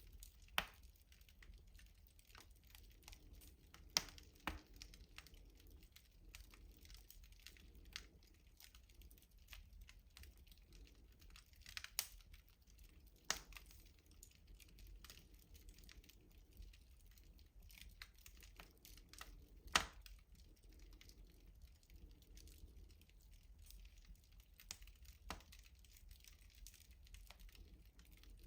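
Wood fire crackling in a traditional rustic stove. Scattered sharp pops and snaps come at irregular intervals over a faint background, and the loudest pop falls about two-thirds of the way through.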